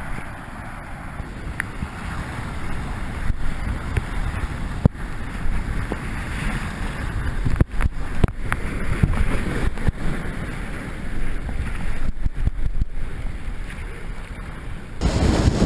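Rushing whitewater of a river with wind buffeting the microphone, broken by a few sharp knocks; the rush gets suddenly louder near the end.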